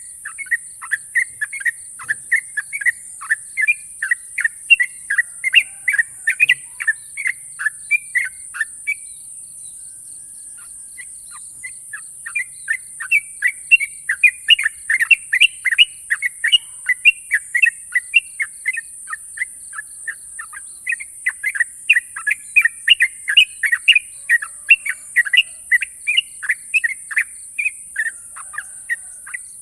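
Yellow-vented bulbul (trucukan) singing long, sharp runs of rapid chattering notes, several notes a second. The song comes in three runs, with short pauses about nine seconds in and again about twenty seconds in.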